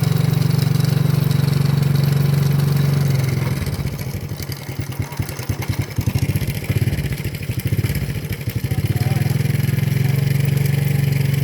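Motorcycle engine running steadily while riding. For several seconds in the middle the note drops and turns uneven and pulsing, then settles back to a steady run near the end.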